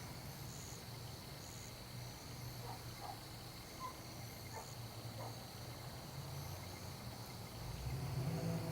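Faint outdoor ambience of insects: a steady high drone with short high chirps about once a second, over a low steady hum that grows louder near the end.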